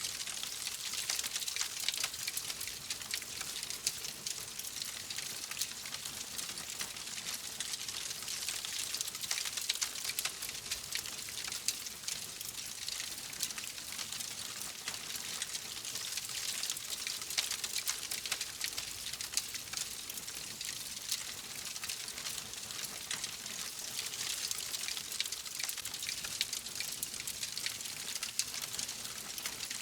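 Fire crackling steadily in a fireplace: a dense run of small pops and snaps over a soft hiss.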